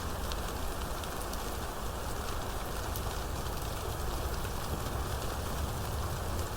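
Steady heavy rain falling, with scattered drop ticks over a low, even rumble.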